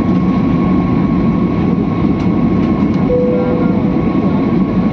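Steady, loud rumble of a moving vehicle heard from inside, with a constant high whine running through it. About three seconds in comes a short, steady tone lasting roughly half a second.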